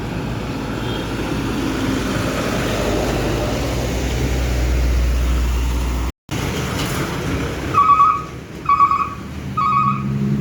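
Heavy truck engine running, its low rumble growing louder for about six seconds until it cuts off suddenly. After that, another engine rumbles more quietly, and four short high beeps sound near the end.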